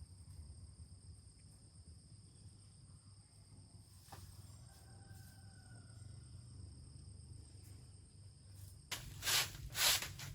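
Outdoor ambience: a steady, thin, high insect-like whine over a low rumble, with two loud noisy swishes about half a second apart near the end.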